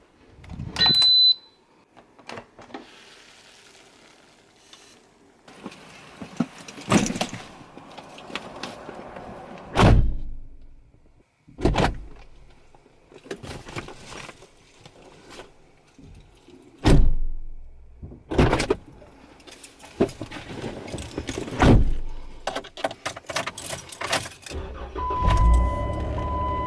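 A series of sharp knocks and thumps with rustling handling noise between them. About 25 seconds in, a steady tone with a low hum comes in.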